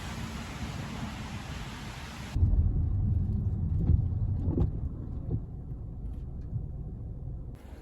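Steady rain hiss. About two seconds in it cuts abruptly to a louder, muffled low rumble with a few soft knocks, which returns to the hiss near the end.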